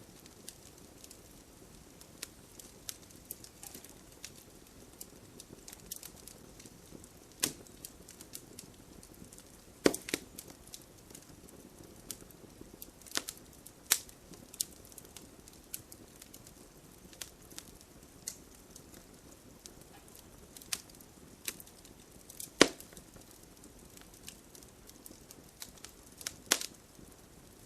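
Wood campfire crackling: irregular sharp pops and snaps over a faint low rush of flame, with a few much louder pops among them.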